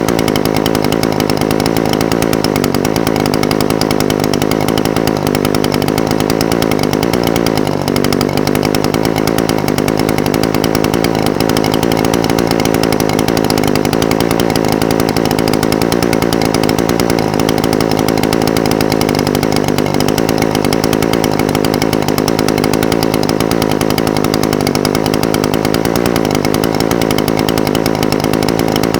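Echo SRM-420TES brush cutter's two-stroke engine idling steadily, its speed wavering slightly now and then.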